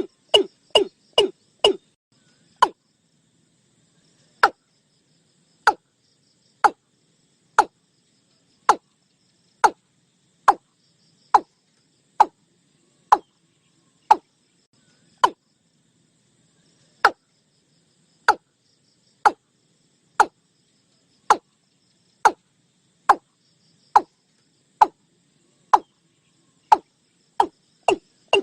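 Watercock (cúm núm) calling: a series of short, hollow knocking notes. They come quickly, about three a second, for the first two seconds, slow to about one a second, then speed up again near the end. It is a recorded decoy call of the kind played to lure watercocks.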